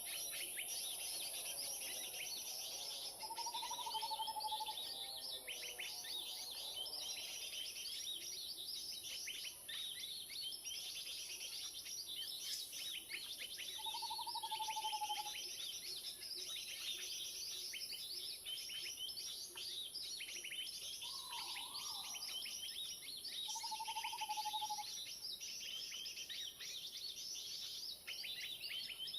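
Dense, continuous chattering and chirping of many small birds, the 'keributan' commotion lure recording played as an MP3 to call wild birds, over a steady high hiss. A few short, lower whistled notes stand out, spread through the stretch.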